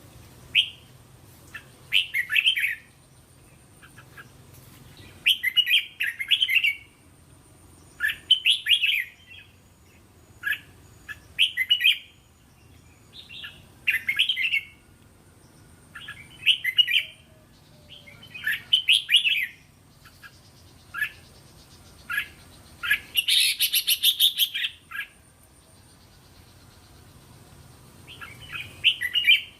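Red-whiskered bulbul singing: short warbling phrases repeated about every two seconds, with a longer, louder, busier phrase about two-thirds of the way through.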